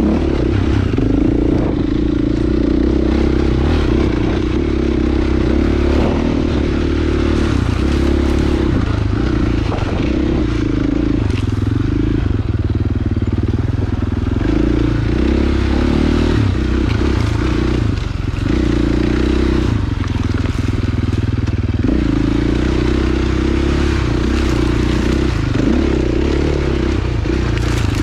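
Dirt bike engine running as the bike is ridden along a trail, the engine note rising and easing off with the throttle. There is a short drop in the engine note about two-thirds of the way through.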